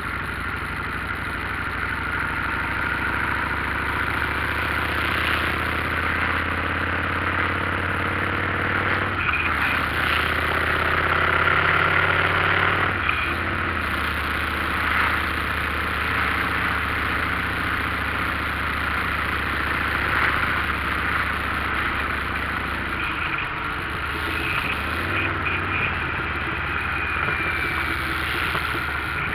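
Motorcycle engine running steadily under a continuous rushing noise, as heard while riding; the engine note shifts twice, about nine and thirteen seconds in.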